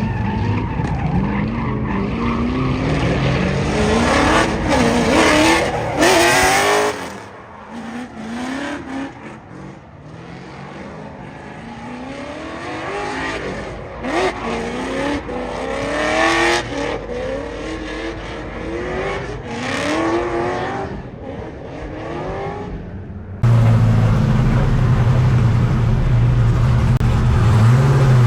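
LS V8 engine of a BMW E82 drift car revving hard on a drift lap, its pitch climbing again and again as the throttle is worked, with a quieter stretch about a quarter of the way in. Near the end it cuts abruptly to a steady, loud, deep engine drone.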